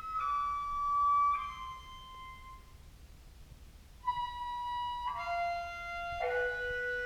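Contrabass clarinet played through octave-up and synth pedals with reverb, its notes shifted up into a high, clarinet-like register. It holds a couple of notes that fade out, then after a short gap plays a slow stepwise descent of held notes.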